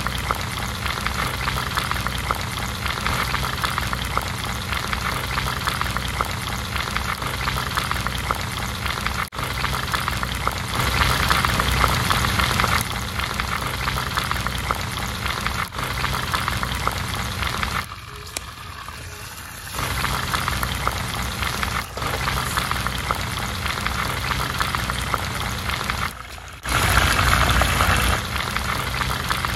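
Food sizzling as it fries, a steady hiss that drops quieter for a couple of seconds a little past halfway.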